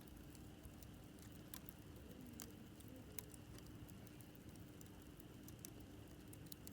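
Campfire burning: wood crackling quietly with scattered small pops and ticks, a few louder snaps among them, over a faint steady low hum.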